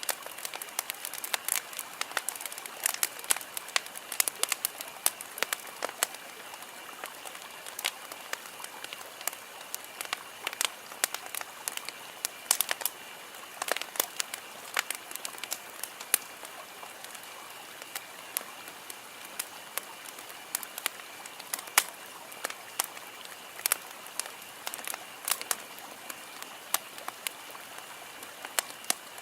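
Wood campfire burning, crackling with irregular sharp pops and snaps over a steady hiss.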